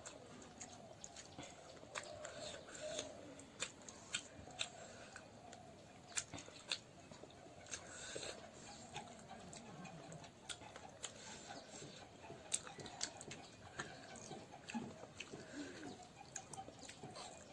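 Faint close-up chewing of food, with irregular sharp mouth clicks and smacks.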